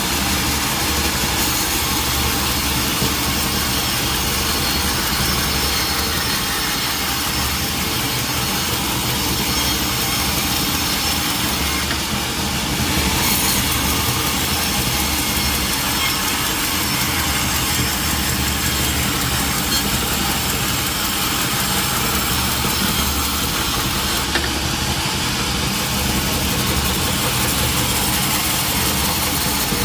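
Sawmill machinery running steadily, with the saw cutting through teak wood.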